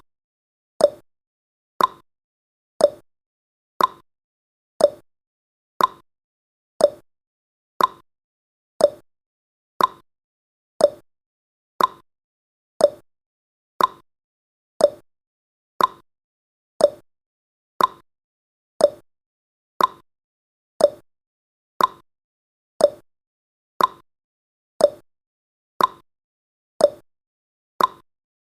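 Countdown timer tick sound effect: a short, sharp click once every second, evenly spaced, with silence between the ticks.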